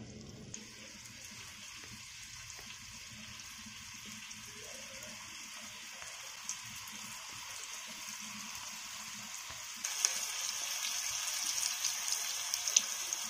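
Rice-flour-coated button mushrooms sizzling in shallow oil on a flat tawa. The sizzle slowly grows louder as more pieces go into the oil, jumps louder about ten seconds in, and has a few sharp pops of spitting oil near the end.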